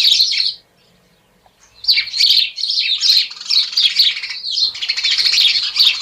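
Small bird chirping and twittering in quick, high trills. It breaks off about half a second in, then resumes at about two seconds in and keeps up an unbroken run of chirps.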